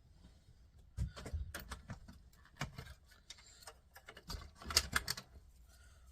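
Irregular small clicks and light knocks of plastic and metal stereo parts being handled and pulled apart by hand. They come in a scattered run, with a denser, louder cluster about four to five seconds in.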